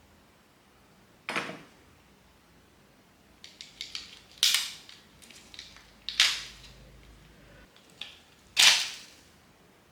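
A handful of sharp, irregular knocks and clacks, a few small clicks among them, the loudest near the end: tools or parts being handled and set down during hands-on work.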